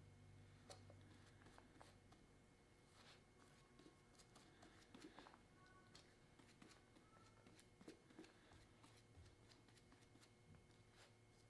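Near silence with faint scattered clicks and small handling sounds, over a faint low hum of room tone.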